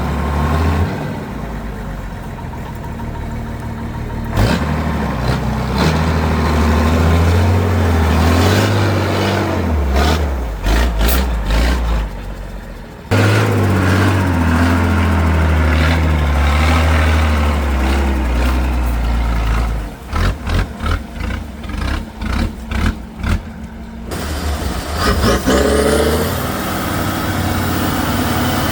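Heavy off-road truck engines revving and labouring, their pitch rising and falling with the throttle. About twenty seconds in, the sound breaks into a run of short choppy bursts, then an engine revs up rising.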